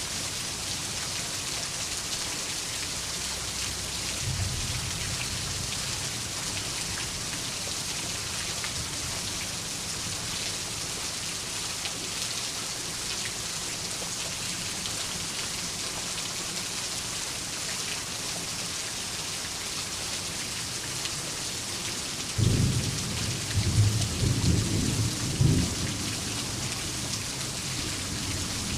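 Steady heavy rain hissing, with a faint distant rumble of thunder about four seconds in and a louder clap of thunder rolling in several cracks for about three seconds near the end.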